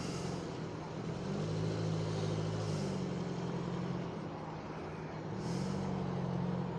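Car engines running as cars move slowly past, a low steady hum that shifts in pitch a few times.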